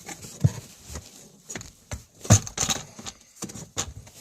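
Scattered clicks and knocks of hands working on plastic dashboard trim, irregular, the loudest a little over two seconds in.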